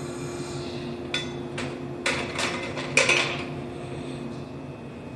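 Metallic clanks from the coupling gear of a Shinano Railway 115-series electric train being uncoupled: about five sharp knocks in quick succession between one and three seconds in, the last the loudest, over the steady hum of the standing train.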